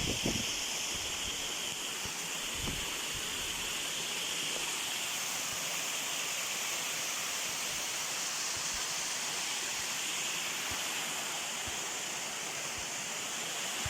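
Waterfall on a mountain river: steady rushing of falling water. A couple of faint low thumps in the first seconds.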